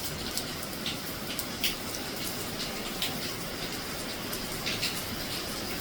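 Heavy tropical rain pouring steadily, a dense even hiss with scattered brief, sharper taps of drops.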